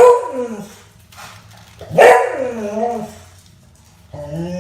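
Beagle barking: one drawn-out bark trailing off at the start, another about two seconds in, and a third near the end, each sliding down in pitch as it ends.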